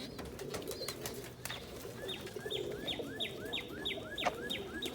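Pigeons cooing in a loft, with a fast run of short, high repeated chirps, about three a second, that starts about a second and a half in.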